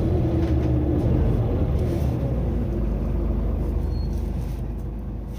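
Mitsubishi Fuso Aero Star city bus's diesel engine and road rumble heard on board, running at lower power after the throttle is let off, gradually getting quieter as the bus slows.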